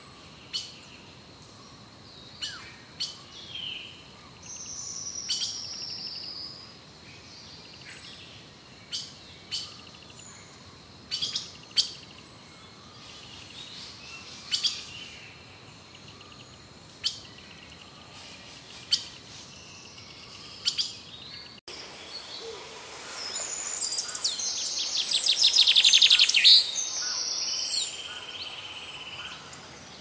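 Wild birds calling: short, sharp high chirps every second or two, with one longer held call a few seconds in. About three-quarters of the way through, a louder song of rapid repeated notes rises and then breaks off.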